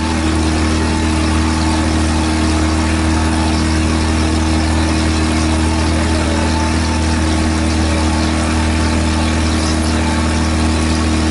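Tour boat's engine running steadily, a loud, even low hum with steady tones above it and a constant hiss.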